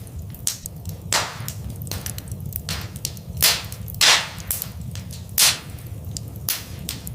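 Wood fire crackling in a fireplace: irregular sharp pops and snaps over a steady low rumble of the flames, the loudest pops about a second in, around three and a half and four seconds in, and once more near five and a half seconds.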